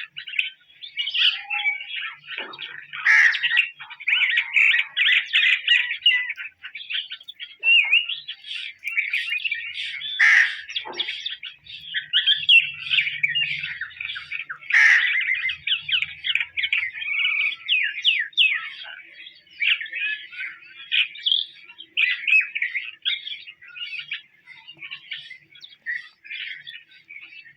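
Bird calls: a continuous, rapid chatter of chirps, with a few louder, sharper notes about 3, 10 and 15 seconds in.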